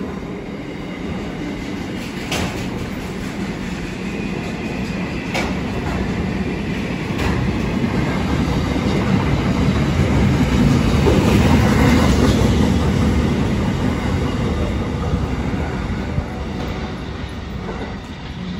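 Freight train of container flat wagons, many of them empty, rolling past: a continuous rumble of wheels on rail with a few sharp clacks over rail joints in the first half. It is loudest about two-thirds through and eases off near the end as the last wagons pass.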